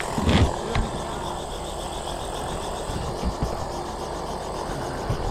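An engine running steadily at idle, with wind buffeting the microphone in low thumps, the strongest about a third of a second in.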